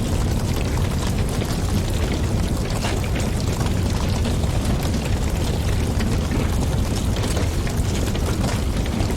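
Wood fire burning in a fireplace, with a steady low rumble of flames and a constant run of small crackles and pops.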